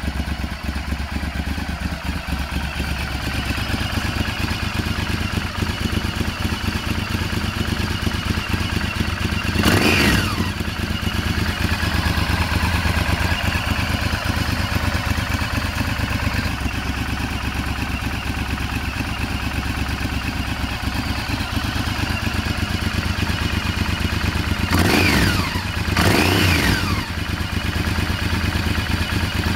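Honda VTR1000F's 90-degree V-twin, breathing through a Yamamoto Racing aftermarket exhaust, idling steadily and blipped three times: once about ten seconds in and twice in quick succession near the end, each rev dropping back to idle.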